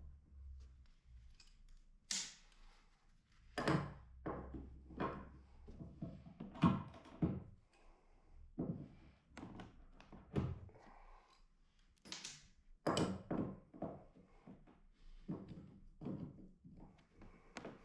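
Old wooden floorboards being torn up: irregular knocks and thuds of wood on wood, about one a second.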